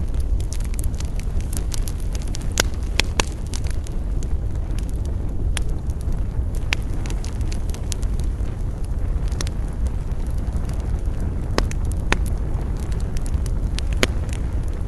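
Campfire burning: sharp, irregular crackles and pops from the burning wood over a steady low rumble.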